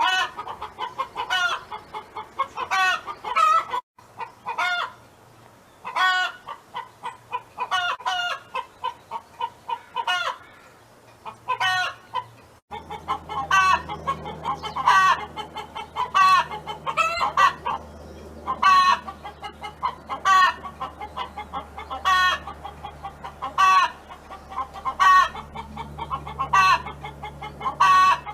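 A domestic hen clucking over and over, short sharp calls spaced irregularly, about one every second.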